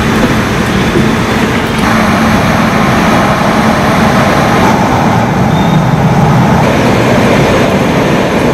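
Train noise at a railway station platform: a loud, steady rumble and hiss. The sound changes abruptly about two seconds in and again near five seconds.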